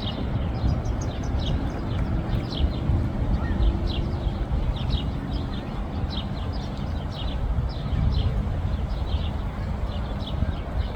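Small birds chirping in short high notes, scattered through the whole stretch, over a steady low outdoor rumble.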